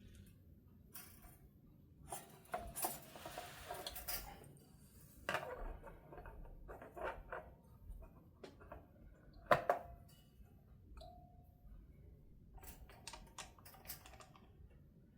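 Irregular light clicks, taps and small metallic rattles of a hand tool and the guitar being handled during a truss rod adjustment, with a denser rustling stretch a few seconds in and one sharper click near the middle.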